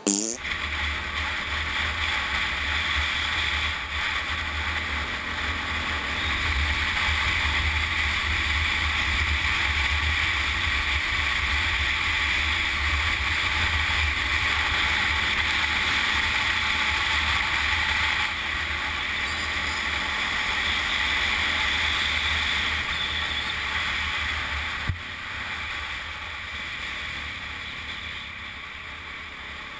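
Wind rushing and buffeting over the microphone of a camera on a moving motorcycle, a steady loud rush. A short thump comes near the end, after which the rush eases somewhat.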